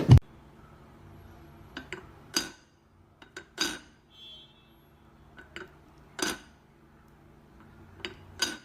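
A loud knock at the start, then a scattered series of short, sharp clinks and knocks of hard objects, about a dozen in all, coming singly and in quick pairs.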